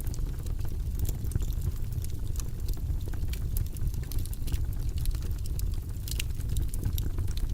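Wood fire burning in a fireplace, crackling and popping irregularly, with many sharp snaps over a steady low rumble of the flames.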